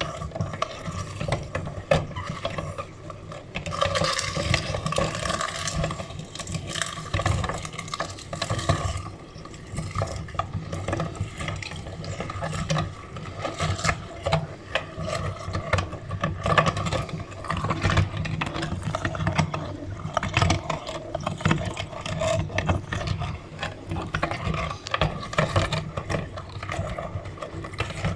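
Meat grinder working through eggs: a continuous mechanical churning with many irregular clicks and wet, crackling sounds.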